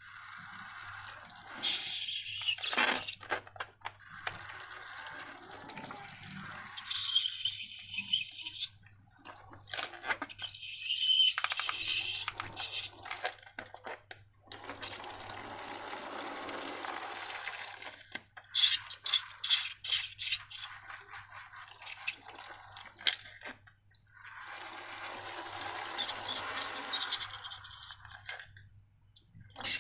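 Slime ingredients being poured and mixed: several bursts of wet, liquid pouring and sloshing noise, with a steadier pour around the middle and a run of sharp clicks just after it.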